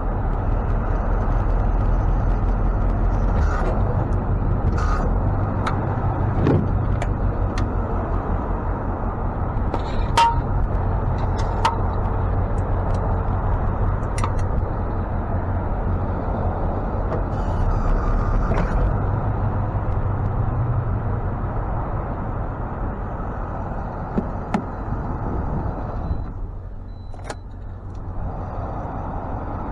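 Ford F-550 tow truck's engine running steadily, its pitch and level shifting every few seconds, with scattered sharp clicks and clanks from equipment being handled.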